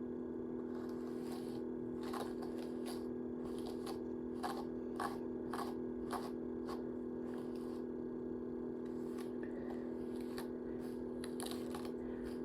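Short crackling, scraping strokes of hair being handled and worked close to the microphone, coming in irregular clusters, over a steady low electrical hum.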